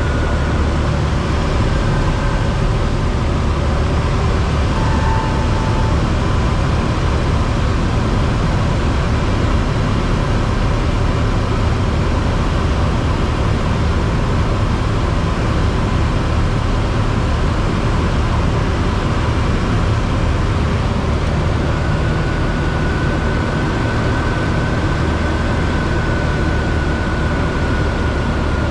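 Steady cabin noise of a Cessna 172 in flight: the engine idling under a constant rush of airflow, with the aircraft in a forward slip.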